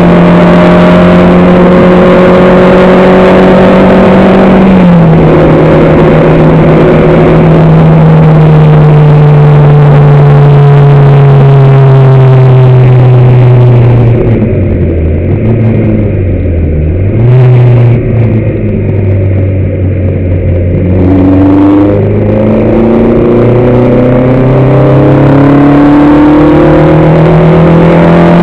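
On-board sound of a racing car's engine under hard load, very loud: an upshift about five seconds in, then revs slowly falling. About halfway it comes off the throttle, with short rev blips, then pulls hard again with revs rising near the end.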